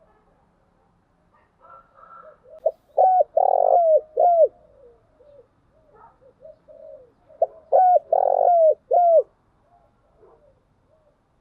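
Spotted dove cooing: two phrases of several coos each, the first beginning a couple of seconds in and the second a little past the middle, each made of short notes around a longer held coo, with softer faint coos between them.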